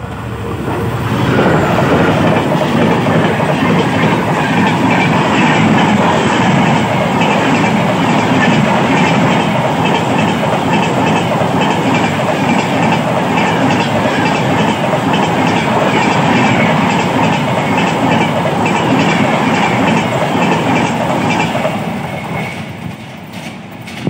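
A train passing close by: a loud, steady rumble with the rhythmic clatter of wheels over rail joints. It builds up in the first two seconds and fades away near the end.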